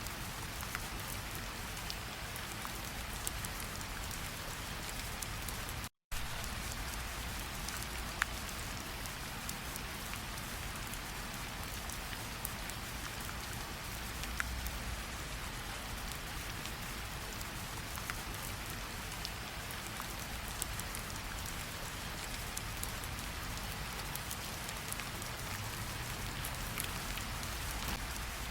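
Steady rainfall on the ground and standing water, with scattered single drops ticking louder now and then. The sound cuts out for a split second about six seconds in.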